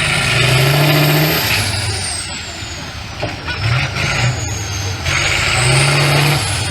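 Competition truck's diesel engine revving hard twice, with a high whistle that rises with each rev and falls away as it eases off.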